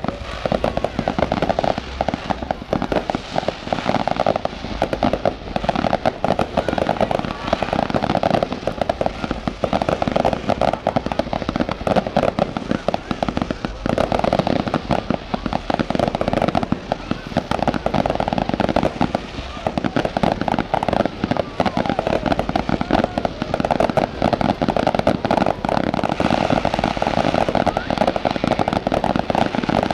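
Firecrackers crackling in a rapid, continuous string of small bangs that never lets up, with a band of sound that swells and fades over it.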